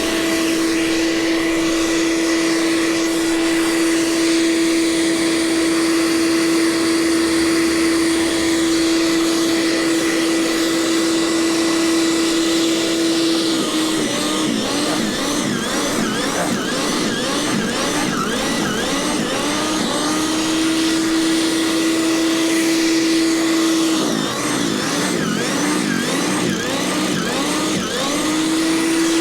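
Gasoline snowblower engine running at a steady speed, its pitch dipping and wavering for several seconds around the middle and again near the end before it settles back to a steady drone.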